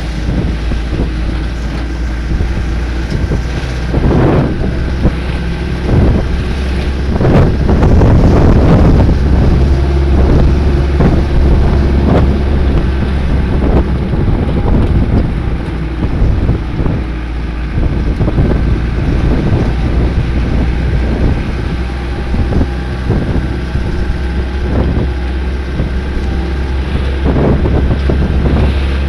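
Vehicle engine running steadily on the move, with wind buffeting the microphone in irregular gusts, heaviest about a third of the way in.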